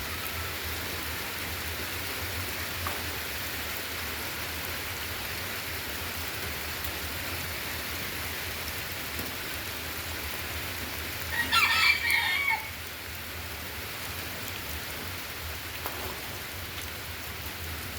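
Steady rain falling, with a rooster crowing once about eleven seconds in.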